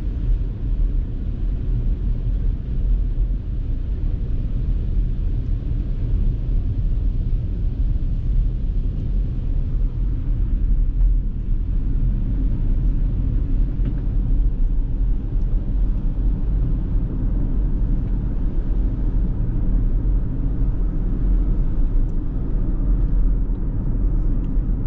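Steady low rumble of road and tyre noise inside the cabin of a Ford Mustang Mach-E electric car while it is being driven.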